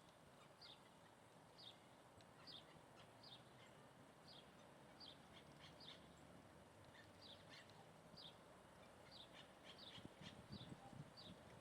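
A bird giving a short, high call over and over, roughly once a second, faint against a steady background hiss.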